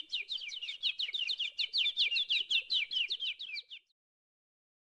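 A bird chirping fast and evenly, about eight short high chirps a second, that stops abruptly a little before four seconds in.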